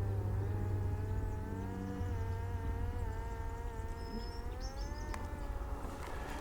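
Parrot Disco fixed-wing drone's electric pusher propeller whining in flight, its pitch wavering slowly up and down as it flies past, over a low rumble of wind on the microphone. A few faint bird chirps come in about halfway through.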